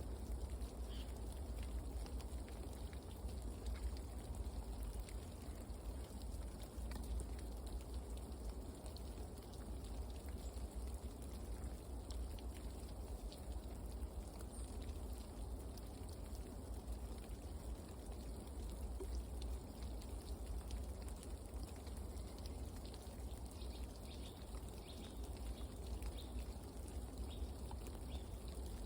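Outdoor ambience at a forest feeder: a steady low rumble with many scattered light ticks, like dripping or pattering, and a few faint high chirps near the end.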